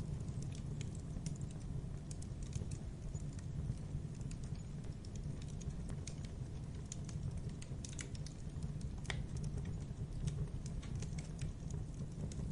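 Wood fire in a fireplace crackling: scattered sharp pops and snaps over a steady low rumble of the flames, with one louder pop about nine seconds in.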